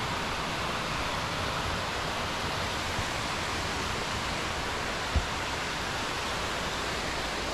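Steady rushing of a mountain creek's water over rocks, with one brief low thump about five seconds in.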